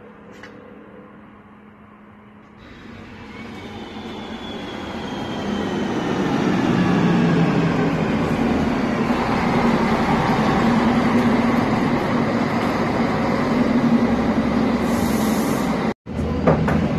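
Local train drawing in along the platform: its sound swells from a few seconds in with thin squeals sliding down in pitch, then settles into a loud, steady rumble with a low drone. The sound breaks off for a moment near the end.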